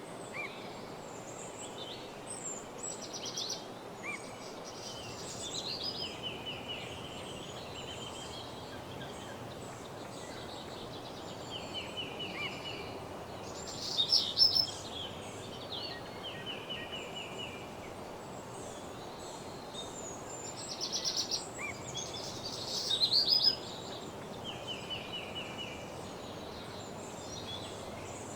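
Several songbirds singing: short songs of rapid repeated notes and trills, coming every few seconds, the loudest about halfway through and twice more in the later part. A steady low hiss of background noise lies underneath.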